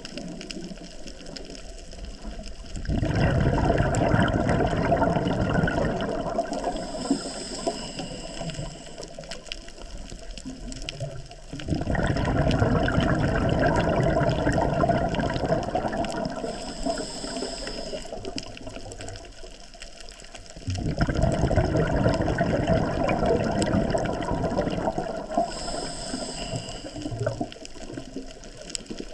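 Scuba diver breathing through a regulator underwater: three long bursts of exhaled bubbles rushing out about nine seconds apart. Between them is the quieter hiss of inhaling through the regulator.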